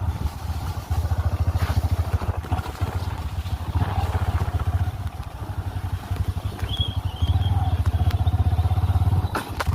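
Bajaj Pulsar NS125 single-cylinder motorcycle running on the move, a steady low rumble that pulses rapidly.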